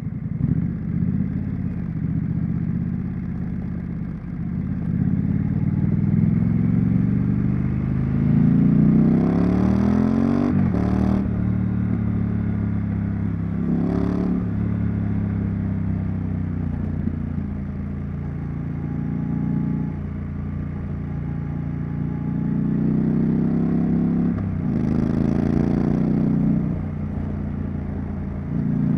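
Triumph Street Scrambler's 900 cc parallel-twin exhaust while riding: the engine pulls up in pitch under acceleration, with quick breaks at gear changes about ten and fourteen seconds in, then holds a steady cruise before building revs again toward the end.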